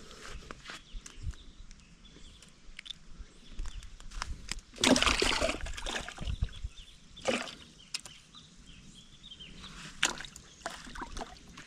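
Water sloshing and splashing in short bursts, loudest in a second-long splash about five seconds in, with smaller splashes later.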